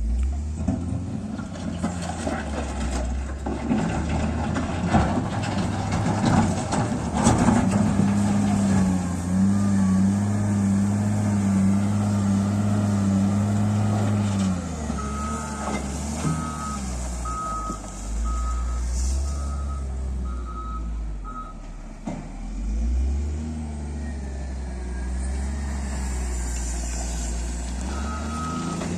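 Heavy diesel construction machine working: the engine runs steadily, with clanks and knocks in the first several seconds, and its engine note rises under load for a few seconds. About halfway through, a reversing alarm beeps evenly for roughly six seconds, then starts beeping again near the end.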